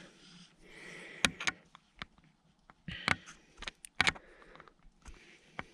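Handling noises: a brief rustle, then a scatter of irregular light clicks and knocks, as of a rifle and its gear being handled.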